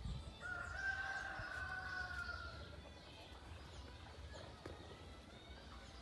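A single long, drawn-out animal call starting about half a second in, held for roughly two seconds and sliding slightly down in pitch, over faint outdoor background noise.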